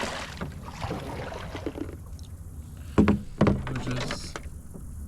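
A short swish at the start, then two hollow knocks against an aluminium-free small canoe's hull about three seconds in, half a second apart.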